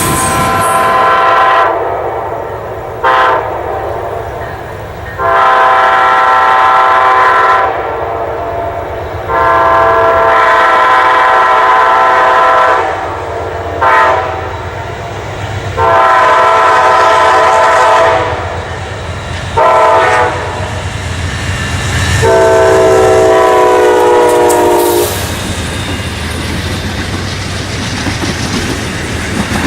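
Diesel locomotive's multi-tone air horn sounding four long and three short blasts over the rumble and clickety-clack of a passing train; the last long blast drops in pitch as the locomotive goes by. The horn stops about five seconds before the end, leaving the train rolling past.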